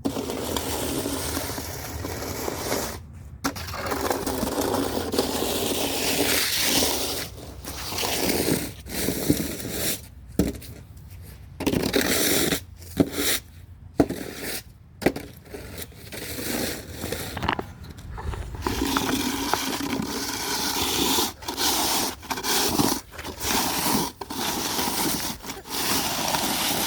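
Snow shovel scraping wet, slushy snow off pavement in repeated strokes, each a second or two long, with short pauses between them.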